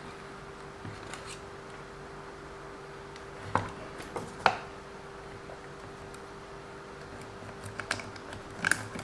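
Small clicks and taps of a tool and plastic parts being handled on an RC car's drivetrain while searching for a missing driveshaft screw: a few sharp ones three and a half to four and a half seconds in and a cluster near the end, over a faint steady hum.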